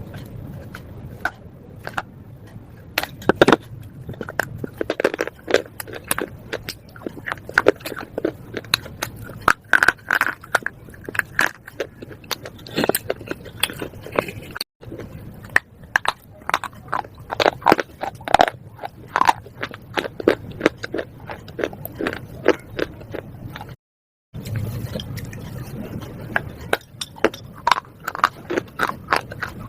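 Person biting and chewing slate pencils: a dense run of hard, dry crunches and cracking snaps, broken by two short silent gaps.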